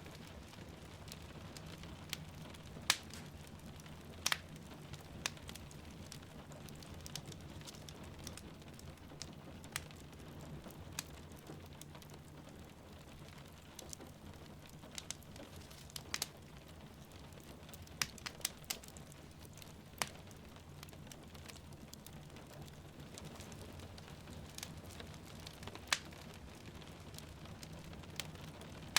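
Wood fire crackling, with irregular sharp pops every second or few, over a steady low rumble and the soft even hiss of falling rain.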